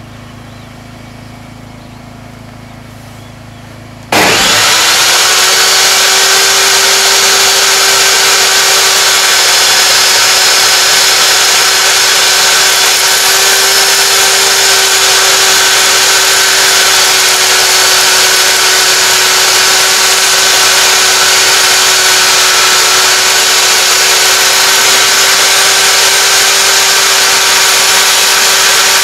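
A low steady hum, then about four seconds in a table saw is switched on: its motor comes up to speed almost at once and runs loud and steady at a constant pitch.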